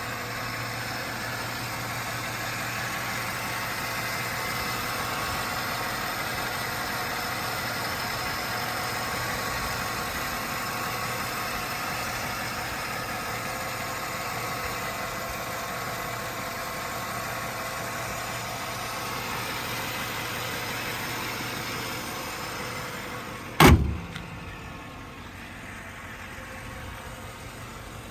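1995 Chevrolet Impala SS's 5.7-litre LT1 V8 idling steadily. About three-quarters of the way through comes a single sharp thump, after which the engine sound is much quieter.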